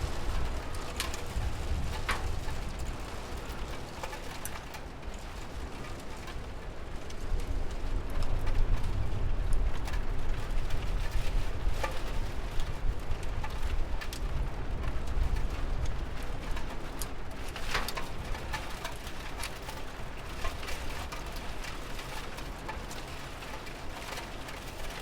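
Steady rain with scattered sharp drips, under a low rumble that swells in the middle.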